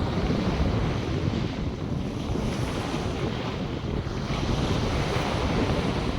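North Sea surf washing onto the beach in a steady, swelling hiss, with gusty wind rumbling on the microphone.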